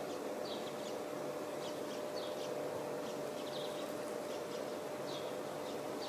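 A bird's short, high chirps, repeated irregularly every second or so, over a steady background hiss with a faint hum.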